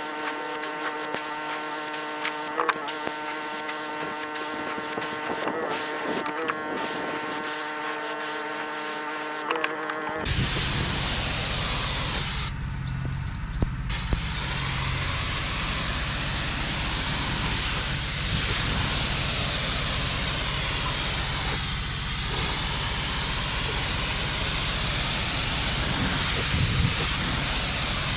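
Pressure washer running: a steady machine hum under the hiss of the water spray. About ten seconds in, the sound changes abruptly to a louder, rougher rushing spray with a low rumble underneath.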